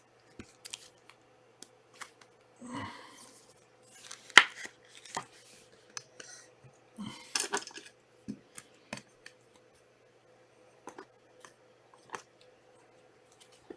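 Trading cards and foil pack wrappers being handled: scattered small clicks and short rustling, scraping sounds.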